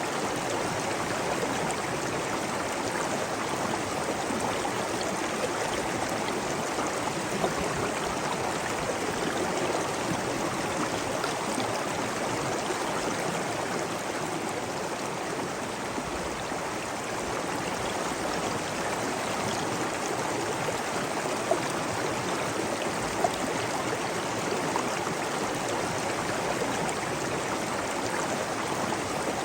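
Flowing water rushing steadily, with a few faint brief ticks of splashing droplets.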